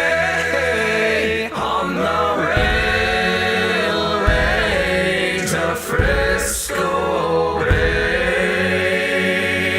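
A choir singing long held notes without clear words over a low bass, with a beat struck every second or two, closing a railroad work song.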